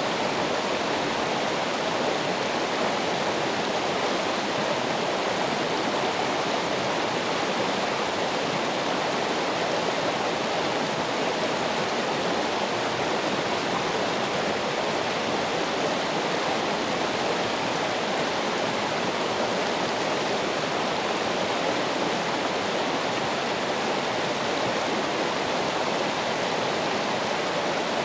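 Running water from a stream or small waterfall, a steady, unbroken rushing.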